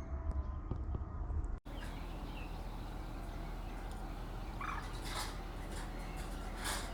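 Wetland birds calling over a steady outdoor background hiss, with several short calls between about three and seven seconds in. The first second and a half holds a low rumble that cuts off abruptly.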